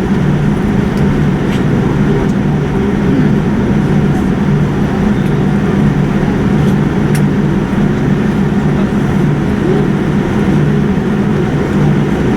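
Steady low rumble and hum inside a moving vehicle's cabin, running evenly without change.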